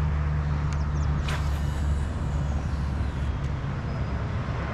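Steady low rumble of road traffic from a nearby expressway, with a couple of faint clicks about a second in.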